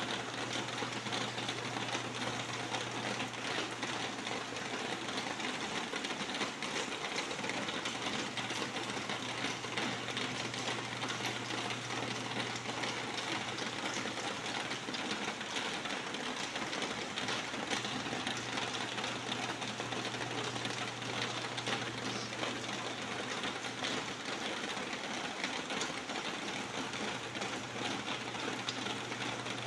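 Steady rain, a dense even rush of countless drops striking a surface, with a low steady hum underneath.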